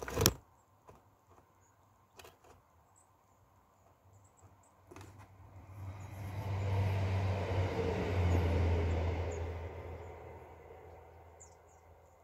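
A motor vehicle passes by: its engine hum and road noise build up over a few seconds and then fade away. There is a sharp click at the very start, and faint bird chirps throughout.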